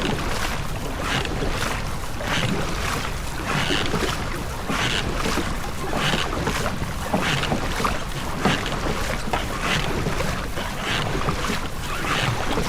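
Rowing boat under way: oars working the water in a regular rhythm, with a splashy surge about every second and a bit, over a steady wash of water and wind on the microphone.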